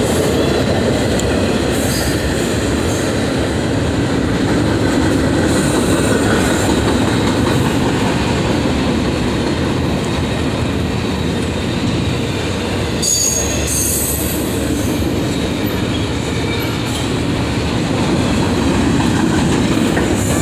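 A long train rolling past close by, with a steady rumble and clatter of wheels on the rails. A brief high-pitched wheel squeal comes about 13 seconds in.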